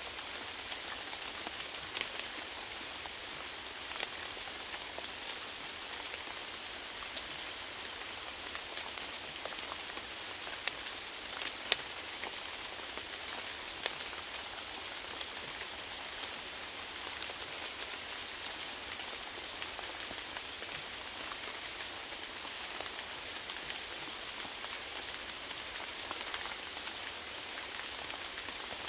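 Steady rain falling, a constant hiss dotted with the sharp ticks of individual drops landing, a few of them louder.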